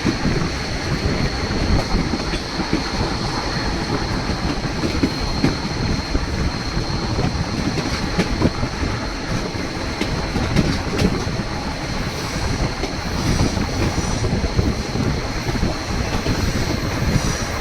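White Pass & Yukon Route narrow-gauge passenger train running along the track: a steady rumble of wheels on rails with scattered faint clacks and a thin, steady high tone above it.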